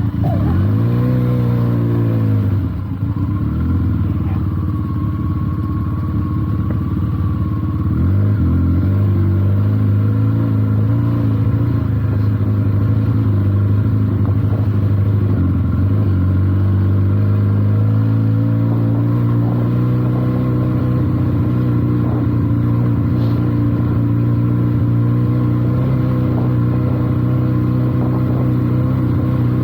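Benelli TNT 300's parallel-twin engine running as the motorcycle is ridden slowly over a rough, slippery track. Its note dips and climbs in the first couple of seconds, then holds mostly steady.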